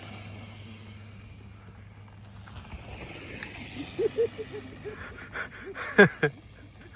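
Bicycle riding noise: a steady hum and hiss of tyres and wind on the microphone. A few short voice sounds come in about four seconds in, and a brief loud one about six seconds in.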